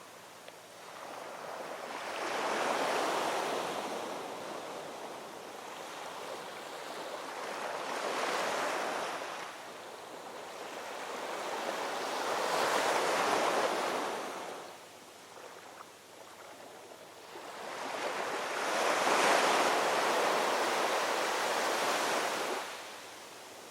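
Ocean waves breaking and washing on a shore, four surges of rushing surf about every five to six seconds, each swelling and falling back into a quieter lull.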